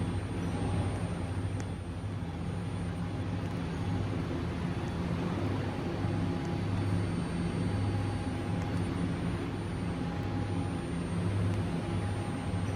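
New York City subway train humming steadily in the station, a low droning rumble that swells and eases with a faint steady whine above it.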